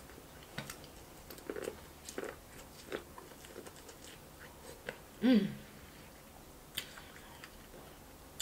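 Corn on the cob being bitten and chewed close to the microphone: scattered short wet clicks and crunches of kernels. About five seconds in, a short voiced sound from the eater stands out as the loudest moment.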